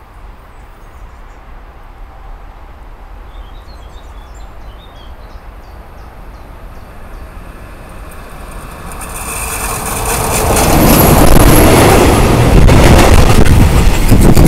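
DB Class 151 electric locomotive hauling a mixed freight train, approaching and passing close: a low distant rumble that swells from about eight seconds in to a loud rolling noise of steel wheels on rail as the locomotive and wagons go by, with sharp wheel clatter near the end.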